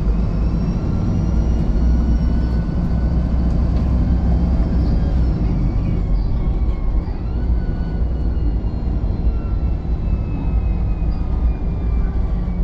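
VDL SB200 Wright Pulsar 2 single-deck bus running, its diesel engine giving a steady low rumble with thin high whines that slowly rise and fall in pitch as it drives.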